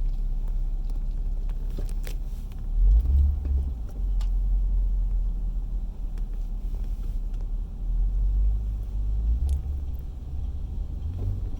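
Low rumble of a car heard from inside the cabin, with heavier surges about three seconds in and again around eight seconds.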